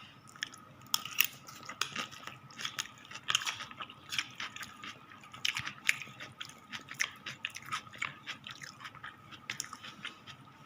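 A person chewing a mouthful of sweet potato leaf salad close to the microphone: irregular small crunches and wet mouth clicks.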